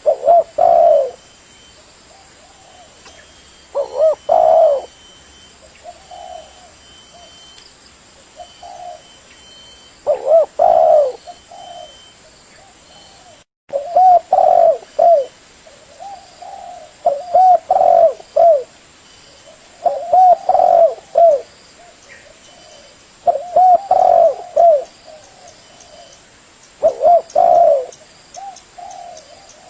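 Spotted dove (tekukur) cooing: phrases of several low coos repeated every few seconds, with a very brief dropout about 13 seconds in.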